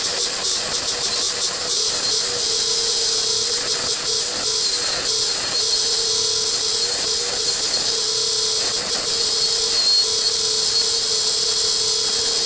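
Union Jubilee wood lathe running with a steady motor hum while a turning tool cuts the outside of a wooden bowl, giving a continuous scraping hiss of shavings with small irregular variations.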